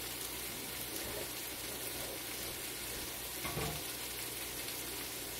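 Chicken, bell peppers and tomatoes frying in a skillet on a gas burner, a steady sizzle. A brief low bump about three and a half seconds in.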